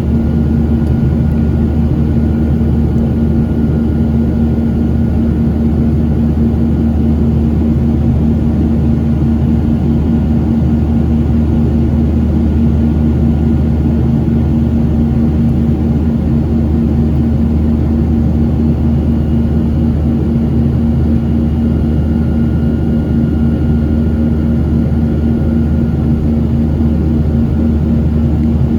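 Jet airliner heard from inside the passenger cabin: the engines and rushing air make a loud, steady drone with a constant hum, with no change in pitch or level.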